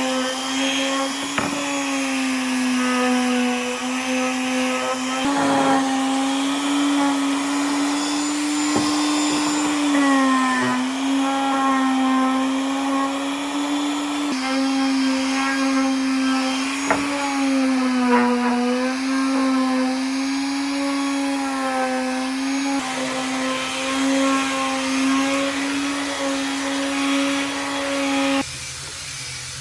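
High-speed electric power tool motor running steadily with a strong whine, its pitch sagging slightly now and then as it is loaded. The sound changes abruptly a few times and cuts off suddenly near the end, leaving a faint hiss.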